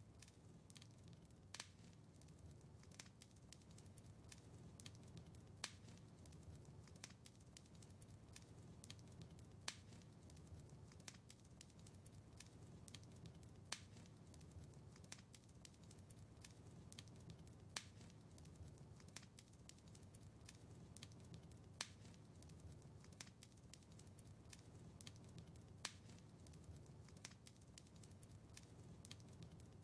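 Wood fire in a fireplace crackling, with frequent small sharp pops over a low steady rumble. A louder pop comes about every four seconds.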